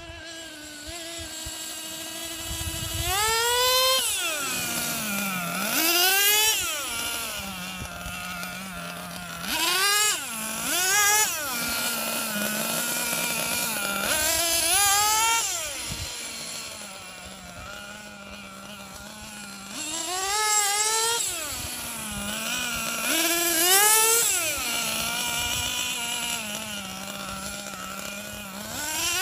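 Small two-stroke gas engine of a Losi XXL-2 RC monster truck, idling steadily and revved up sharply about seven times, each rev rising in pitch and falling back to idle. The engine is running in on its fourth tank, its needles set rich during tuning.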